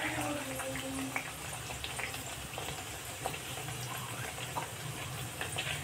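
Mathri frying in oil over a low flame: a steady soft sizzle with scattered small crackles.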